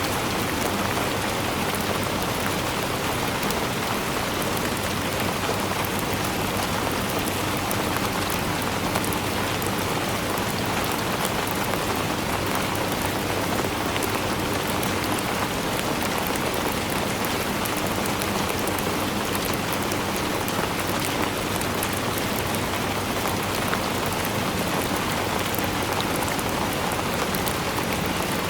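Steady rainfall, an even hiss with many fine drop ticks, holding a constant level throughout.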